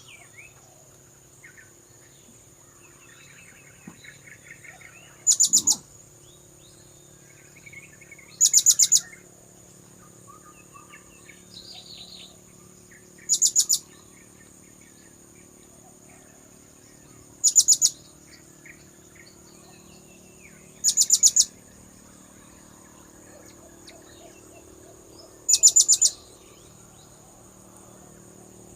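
Blue-crowned hanging parrot (serindit) calling: six short bursts of rapid, shrill high-pitched notes, three to five seconds apart. A steady high whine and faint calls of other birds run underneath.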